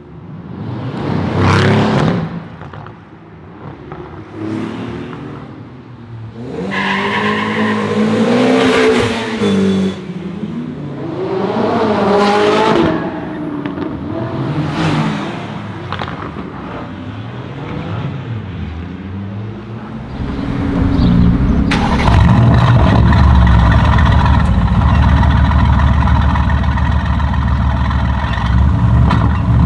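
Mercedes-AMG GT S twin-turbo V8 with a custom straight-pipe exhaust, blipped in a series of short revs that each rise and fall in pitch, then running loud and steady from about twenty seconds in.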